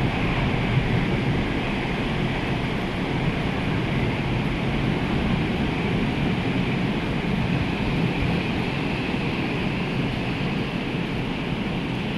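Rough, storm-driven sea: surf and waves rushing in a steady, loud roar, with wind.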